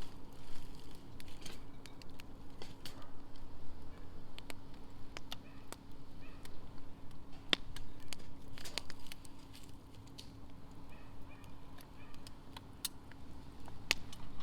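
Wood fire burning in a campfire stand, crackling with irregular sharp pops of varying strength. A faint steady hum runs underneath.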